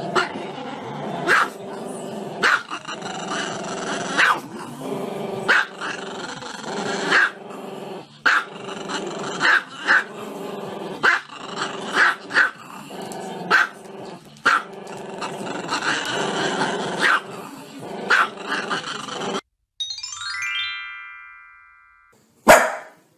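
Small black-and-tan dog barking and howling along to music, with a sharp bark about every second or so. The music and the dog cut off suddenly. A short rising electronic jingle follows, then a single sharp hit near the end.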